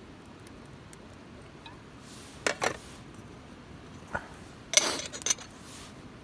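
A few short clinks and clattering knocks of hard objects being handled: one about two and a half seconds in, a lighter one near four seconds, and the loudest cluster about five seconds in.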